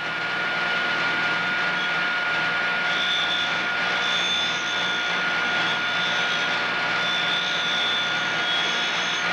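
End mill sharpening machine's motor spinning its grinding wheel: a steady whirring hiss with a constant whine. A higher whine comes and goes from about three seconds in.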